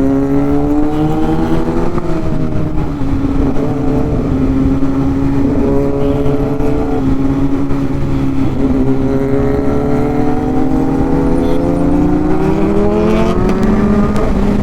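Inline-four Kawasaki sport motorcycle engine pulling under way. Its pitch climbs, drops sharply at a gear change about two seconds in, holds steady, dips again near the middle, then rises steadily through the revs toward the end.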